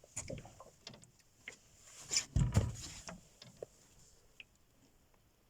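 Scattered knocks and clatter of things being handled, with a heavier thud about two and a half seconds in.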